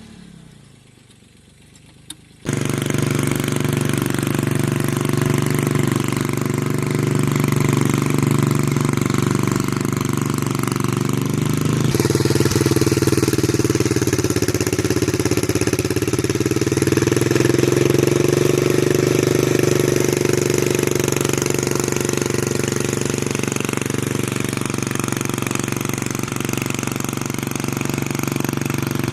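Mini tractor engine running steadily. It comes in suddenly about two seconds in and shifts slightly in pitch about twelve seconds in.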